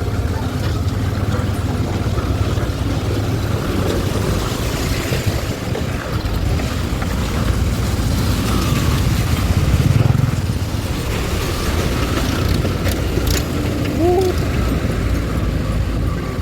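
Motorcycle running while ridden over a rough, muddy, potholed road: a steady low rumble with noise over it. There are a few sharp knocks about thirteen seconds in.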